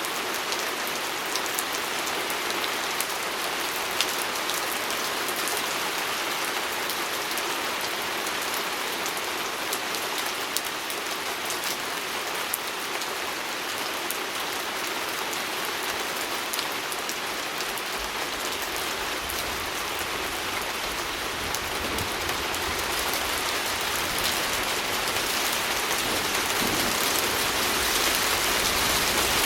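Steady rain pattering on a window, with scattered sharper drop ticks. Past the halfway point a low rumble joins in, and the rain grows slightly louder near the end.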